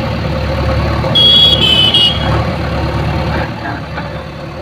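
JCB backhoe loader's diesel engine running steadily, with a high-pitched beep lasting about a second, starting about a second in.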